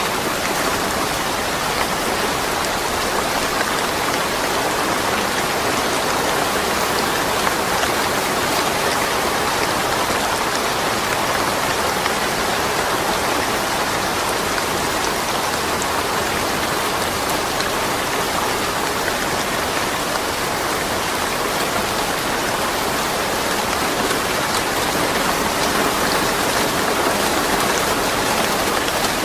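Steady rain falling and pattering on surfaces, with no thunder.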